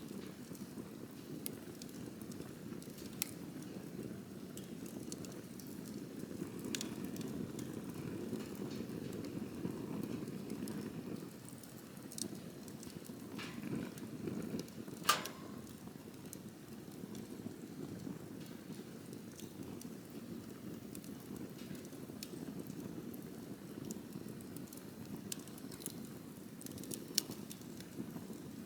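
Wood campfire burning: a steady low rumble of flames with scattered sharp crackles and pops, the loudest pop about halfway through.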